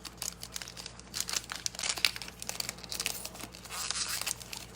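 Crinkling and tearing of a trading-card pack's plastic wrapper as it is ripped open and handled, a dense run of irregular sharp crackles.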